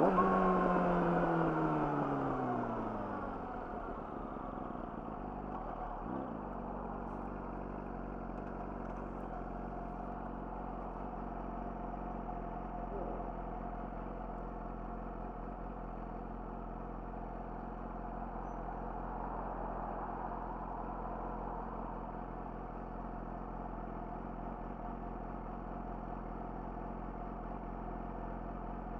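Yamaha YZF-R6 inline-four with an Akrapovic slip-on exhaust, revs falling over the first few seconds as the bike slows, then idling steadily.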